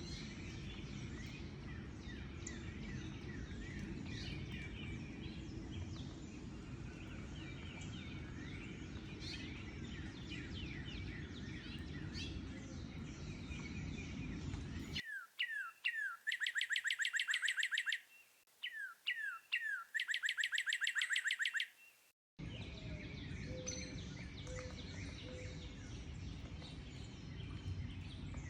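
Many birds chirping and singing over a steady low rumble. About fifteen seconds in, a clean recording cuts in: one bird sings twice, each time a few downslurred notes followed by a fast high trill, before the mixed birdsong and rumble return.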